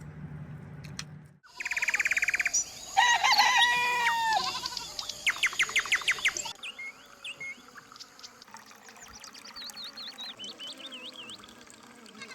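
Farmyard chickens calling, then small birds chirping through the second half.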